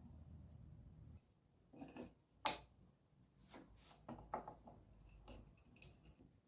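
Irregular light clicks and knocks of small hard objects being handled and set down, the loudest about two and a half seconds in. A low hum underneath stops about a second in.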